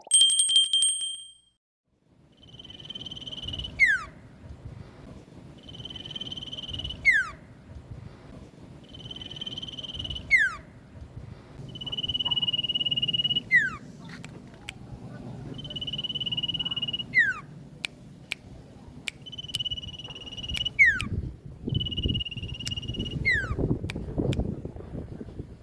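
A bird call repeated about every three and a half seconds, played as a lure to draw a reply from a quiet caged bird. Each call is a steady high whistle lasting about a second, ending in a quick falling sweep.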